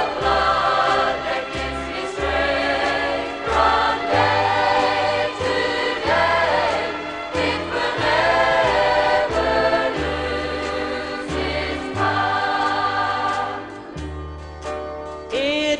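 Choir singing a gospel song over a bass line that moves in steady held notes, with a short quieter stretch near the end.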